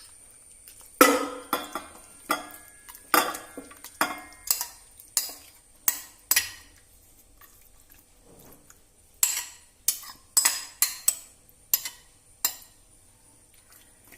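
Metal spoon knocking and scraping against a metal cooking pot as marinated chicken is moved into it. The clinks come in an irregular run, with a pause of about two seconds midway.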